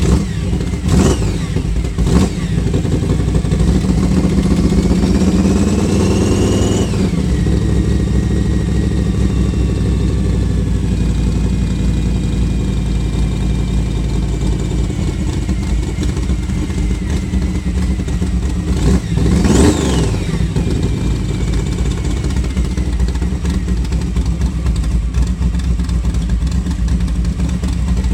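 Studebaker drag-car engine on electronic fuel injection, running steadily and blipped by the throttle: two quick revs about one and two seconds in, a longer rev that climbs for a few seconds and drops back about seven seconds in, and another sharp rev near twenty seconds. The revs test the throttle response after fuel-curve changes meant to cure a bog, and it is responding pretty good.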